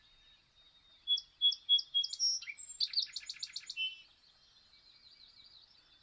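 Songbird singing: a few clear whistled notes about a second in, then a fast trill, then faint twittering.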